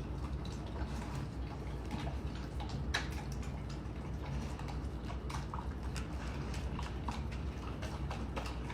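A dog eating a soft mixed meal from its bowl: irregular small clicks and clinks as it eats, over a low steady hum.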